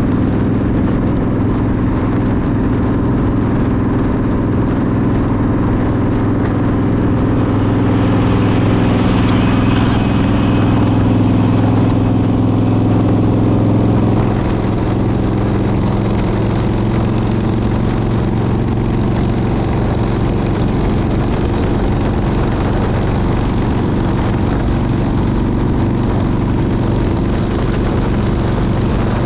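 Motorcycle engine running steadily at cruising speed, with wind and road noise. An extra higher hiss joins from about 8 seconds in and stops at about 14 seconds, where the overall level drops a little.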